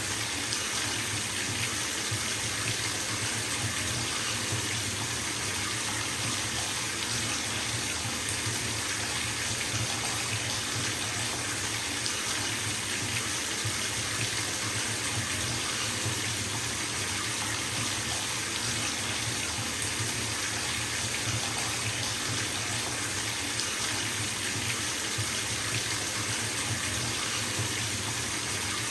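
Bathtub tap running full, water pouring into the tub as it fills: a steady, even rush with a low rumble underneath.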